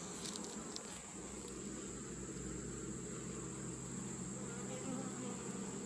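Honeybees buzzing steadily around an open hive, a mass of wingbeats making a low hum, with a few faint clicks about half a second in.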